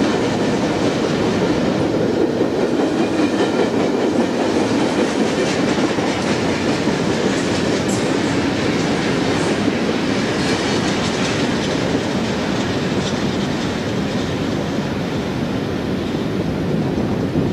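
A train rolling past, its steel wheels running on the rails in a steady loud rumble with faint repeated clicks, easing off a little near the end.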